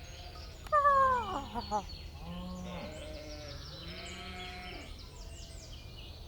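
Cartoon animal calls: one loud, wavering call falling in pitch about a second in, followed by several shorter pitched calls.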